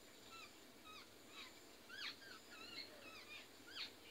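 Faint bird calls: a series of short, arched chirps, a few each second, over a low background hiss.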